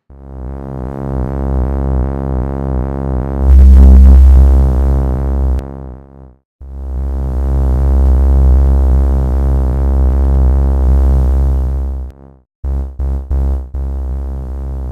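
Two layered Korg monotron samples played from a Maschine pad: a deep, buzzy synth bass note held for about six seconds, swelling louder in the middle, then a second long held note. Near the end come a few quick short stabs and another held note.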